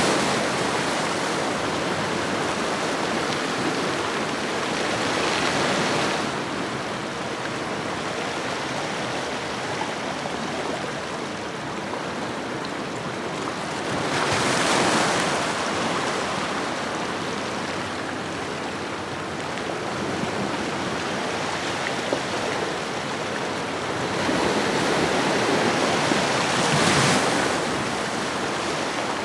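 Ocean surf washing on a shoreline: a steady rush of water, swelling into a louder breaking wash about every six to twelve seconds.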